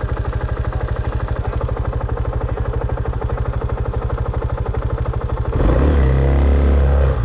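Dirt bike engine idling with an even, rapid pulse, then growing louder and heavier for about a second and a half, starting about five and a half seconds in.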